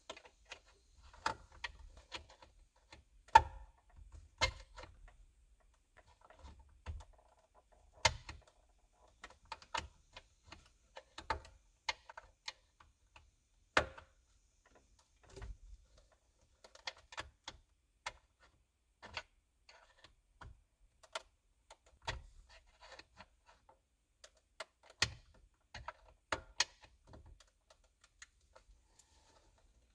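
Irregular metallic clicks, clinks and knocks of hand tools working on a pickup's steering wheel to get it off, with short gaps between them and one sharper knock a few seconds in.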